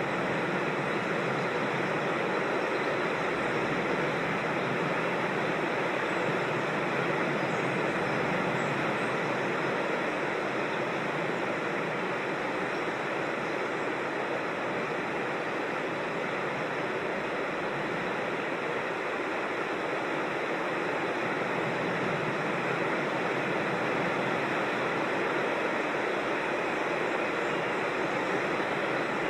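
Steady rush of creek water tumbling over small falls.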